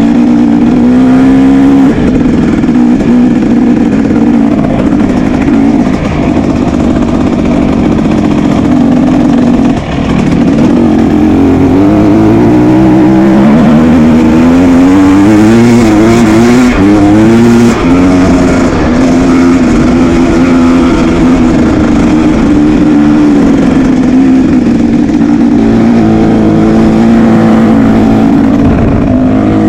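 Motocross dirt bike engines running hard, the pitch holding and then climbing and dropping again and again through throttle and gear changes near the middle.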